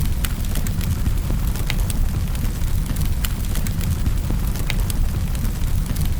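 Wood fire burning in a fireplace: a steady low rumble of flames with scattered sharp crackles and pops, several each second.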